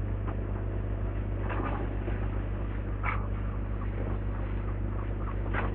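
Demolition excavator's diesel engine running with a steady low drone, with a few short higher-pitched sounds over it about a second and a half, three and five and a half seconds in.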